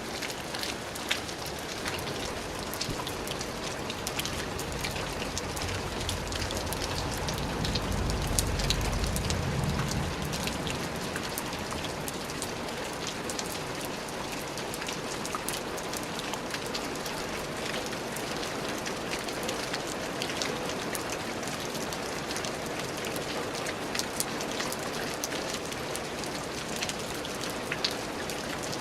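Steady rain falling on a surface, with many individual drops pattering. A low rumble swells and fades about seven to ten seconds in.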